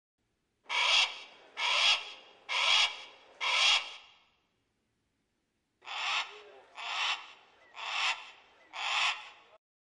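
An eagle's harsh screeching calls: two series of four, about one a second, with a pause of a second and a half between the two series.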